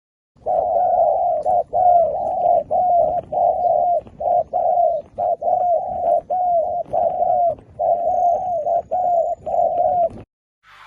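Zebra dove cooing: a fast run of short rolling coo notes, about one and a half a second, which stops shortly before the end.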